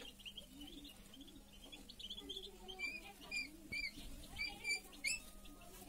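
Small birds chirping in quick, short, high notes, more often toward the end, over a faint steady hum.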